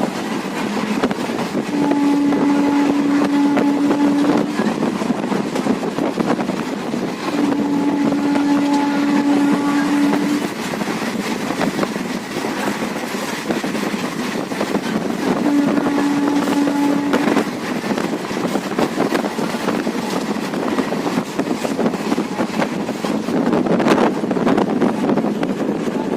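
Train running at speed, heard on board as a steady rushing noise, while the locomotive horn sounds three long blasts, the last one shorter.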